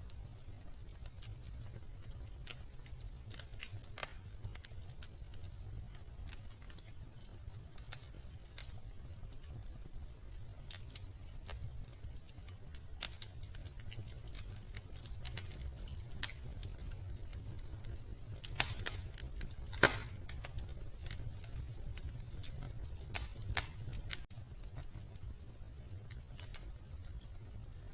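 Wood fire crackling in a fireplace: irregular sharp pops and snaps over a low steady rumble, with a burst of louder pops about two-thirds of the way through.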